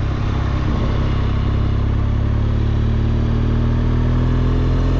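BMW R1200GSA's flat-twin boxer engine running steadily while riding, its pitch edging up a little about two seconds in.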